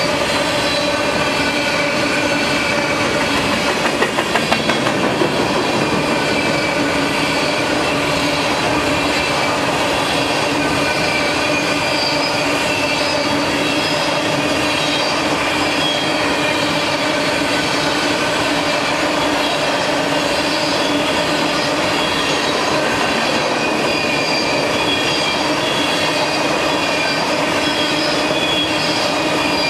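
Freight train boxcars rolling past, wheels squealing with several steady high tones over the rumble and rattle of the cars. A short run of clanks comes about four seconds in.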